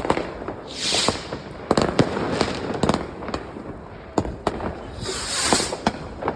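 New Year's Eve fireworks and firecrackers going off: a scatter of sharp bangs and cracks, with two longer hissing bursts, one about a second in and one about five seconds in.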